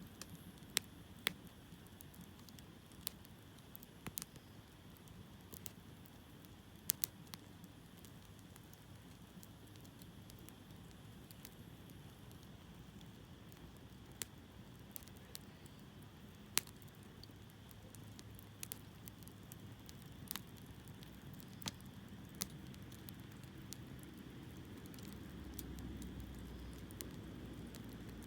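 Hardwood campfire burning, with a soft steady hiss and sharp, irregular pops and crackles from the logs every second or two. A low rumble swells slightly near the end.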